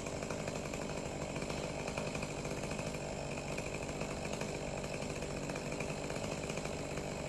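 Chainsaw engine running steadily, holding an even pitch without revving up or down.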